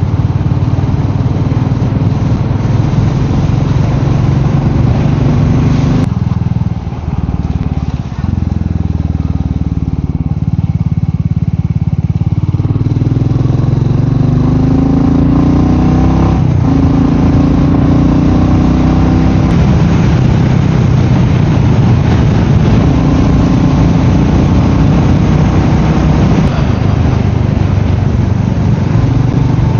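Royal Enfield Meteor 350's single-cylinder engine running on the move, with wind noise. The engine note drops off about six seconds in, then climbs from about twelve seconds as the bike accelerates, with steps in pitch that fit gear changes.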